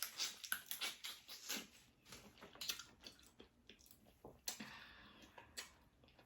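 A person chewing seafood close to the microphone: irregular wet mouth clicks, smacks and squishy bites.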